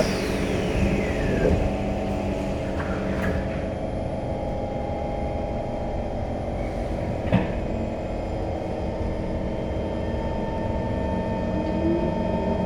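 Cabin noise of a C151 electric train running on the East West Line: a steady rumble with motor hum. A single sharp click comes about seven seconds in, and a faint rising motor tone near the end.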